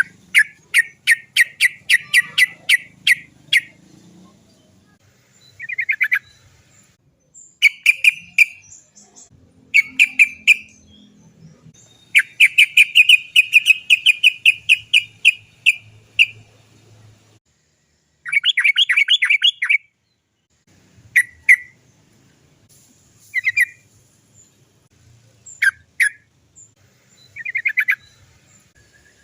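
Sooty-headed bulbul (trucukan) calling in fast runs of repeated 'cok cok cok' notes, several short bursts with pauses between. The longest rolling run lasts about four seconds, starting about twelve seconds in.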